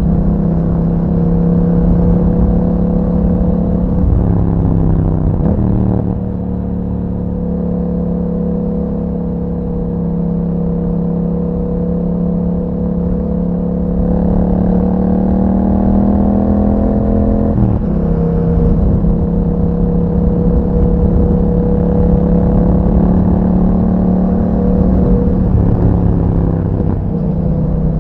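2021 Yamaha MT-07's 689 cc parallel-twin engine through an aftermarket Akrapovic exhaust, running steadily under way. The pitch holds level for long stretches and jumps abruptly a few times, about four to six seconds in, at fourteen seconds and near eighteen seconds, as the rider changes speed or gear.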